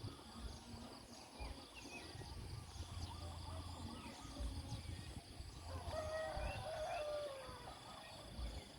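Quiet rural morning ambience: birds chirping here and there, with a lower, slightly falling call about six seconds in, over a faint steady high insect-like drone and a low rumble.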